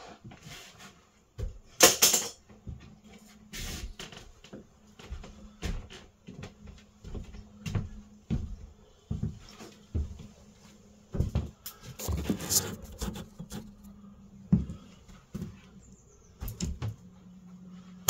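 A rigid stone wool insulation board being cut with a utility knife and handled: irregular knocks and bumps, with a few short scraping strokes of the blade through the wool.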